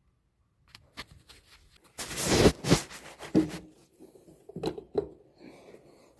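Hand tools working on a small engine: scattered metal clicks and knocks, with a loud scraping rustle about two seconds in.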